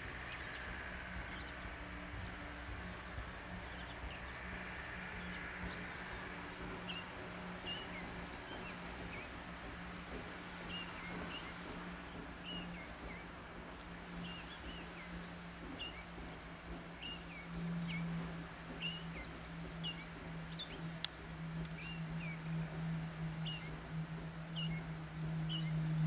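Small birds giving short, high chirps, scattered and irregular, about two a second in the later part. Under them runs a steady low hum that grows louder in the last several seconds.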